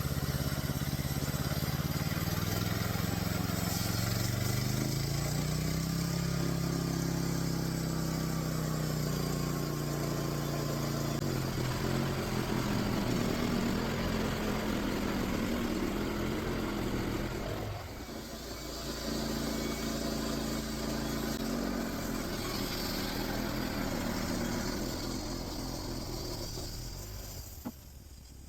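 Small gasoline engine of a DIY band sawmill running, speeding up a few seconds in and then holding steady while the band blade cuts through a pine log. Its speed dips briefly about two-thirds of the way through, recovers, and the engine cuts off near the end.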